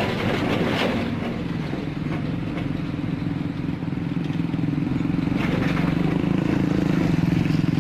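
Heavy diesel truck engine running steadily under load, growing a little louder after about four seconds, with knocks and rattles in the first second and again about five and a half seconds in.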